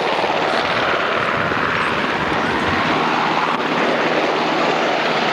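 UH-60 Black Hawk helicopter running steadily close by, its rotors and twin turbine engines giving an unbroken, loud rush of noise.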